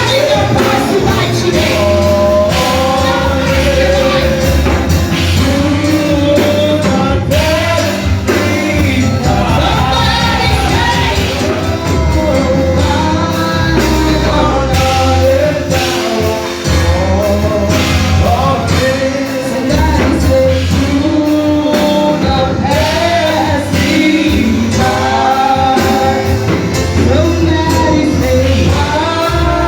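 Gospel worship song: voices singing over a loud instrumental band backing with a steady bass.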